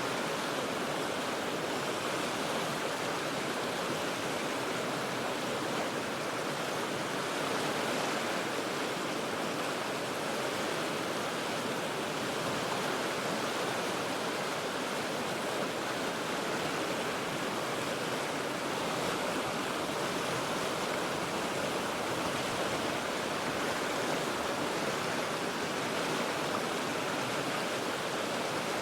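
River water rushing steadily over rocks, a constant even rush with no breaks or single events.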